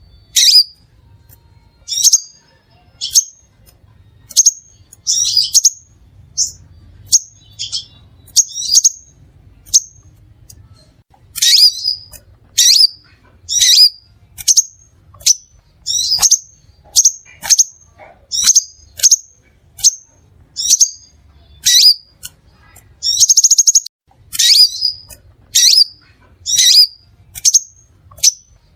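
Crimson sunbird calling: a steady series of sharp, high chips, about one to two a second, with a brief buzzy rattle near the end.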